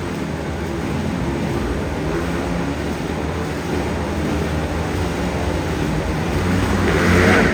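Motorcycle engines running in a continuous, dense drone that swells a little louder near the end.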